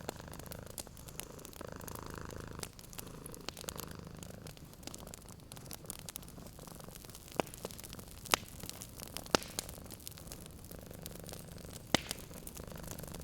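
A cat purring in a steady low rhythm, fading out a little over two seconds in and returning near the end, over the crackle of a wood fire with several sharp pops in the second half.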